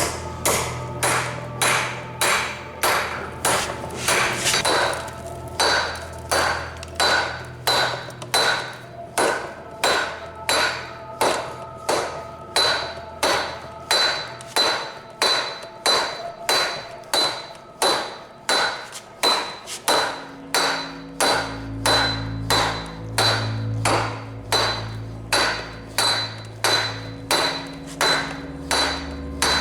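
Blacksmith's hammer striking hot steel on an anvil in a steady rhythm, about one and a half blows a second, each blow ringing briefly.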